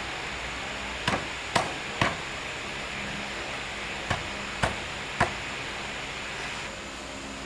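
Six sharp strikes on wood in two groups of three, the strikes about half a second apart, over a steady hiss.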